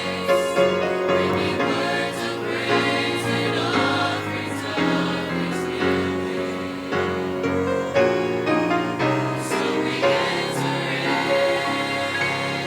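A choir singing a gospel song in harmony.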